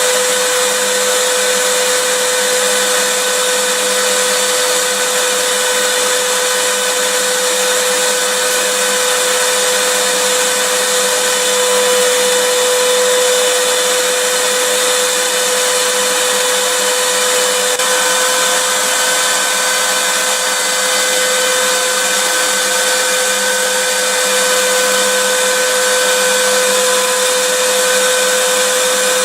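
Vacuum cleaner motor running steadily, an even rushing of air with a constant high whine.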